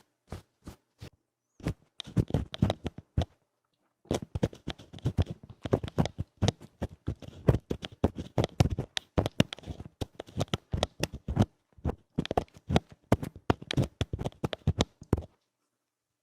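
ASMR ear-cleaning sounds: fast, rough scratching at the ear, in dense runs of scratchy strokes from about two seconds in, with a brief pause, then stopping shortly before the end.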